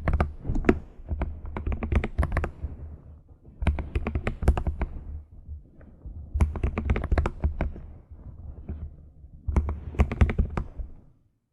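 Computer keyboard being typed on in quick bursts of key clicks, about a second each, with short pauses between bursts, five times over.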